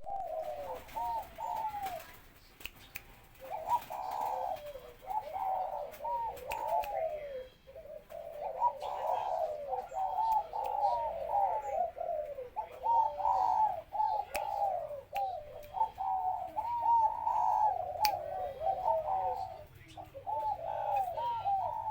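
Spotted dove cooing, repeating its phrases over and over with short pauses about two seconds in and again near eight seconds.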